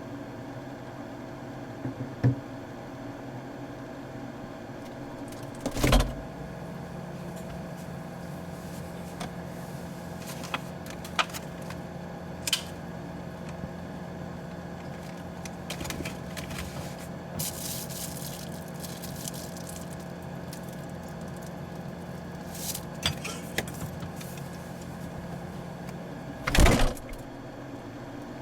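Steady refrigerator hum, with a lower tone joining it just after a loud thump about six seconds in. Scattered light clicks and rattles follow, and a second loud thump comes near the end.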